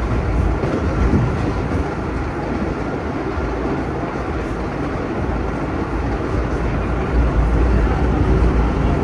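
Vintage New York City subway train running on the track, heard from inside the rear cab: a steady rumble of wheels on rail that grows a little louder about seven seconds in.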